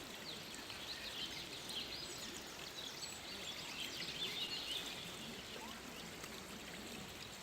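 Small birds chirping in quick, busy phrases over a steady outdoor background hiss, the chirping thinning out after about five seconds.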